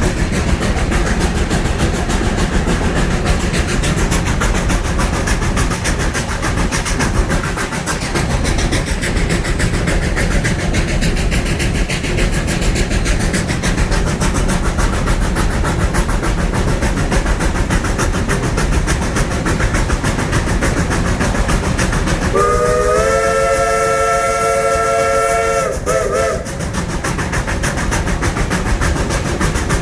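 1920 Baldwin steam locomotive running with a steady rumble and rattle. About three-quarters of the way through, its chime whistle blows one long blast of several notes sounding together, lasting about three and a half seconds.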